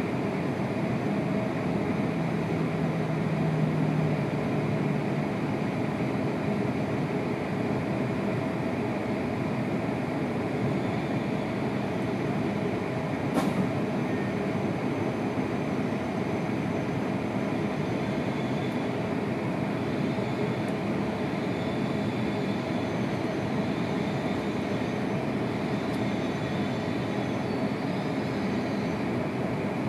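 Steady cabin noise inside a Tohoku Shinkansen train rolling slowly into a station, with one sharp click about halfway through and faint high squeals in the last third as it draws to a stop.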